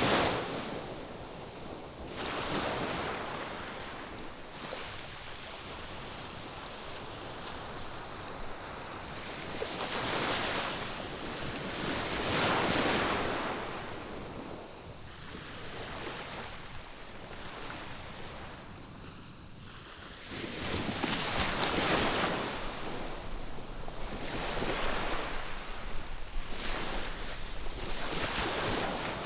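Ocean surf: waves breaking and washing ashore in slow, irregular swells, with several louder surges about ten seconds in and again past the twenty-second mark.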